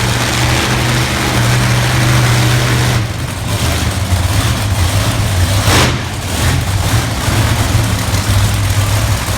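Monster truck engines running at the start line, a loud deep steady drone whose pitch shifts about three seconds in, over a wash of noise.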